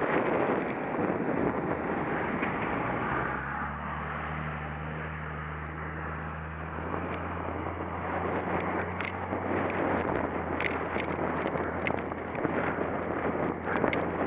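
Wind rushing over the microphone of a camera on a cyclocross bike being ridden, over the rumble of the tyres and bike. A steady low hum comes in for several seconds in the middle. Sharp clicks and rattles come through the second half.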